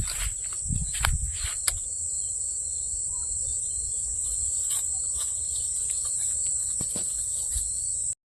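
Insects chirring steadily in a continuous high-pitched drone, with a few clicks and low rumbles in the first couple of seconds; the sound cuts off abruptly near the end.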